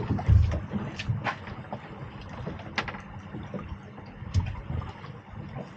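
Water lapping and slapping against the hull of a small anchored boat, with a few irregular low thumps and several sharp knocks and clicks from the boat and its gear.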